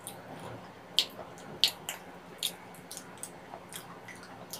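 Close-miked chewing of soft steamed kabocha squash with melted cheese: a string of sharp, wet mouth clicks and smacks over a quiet background, loudest about a second in.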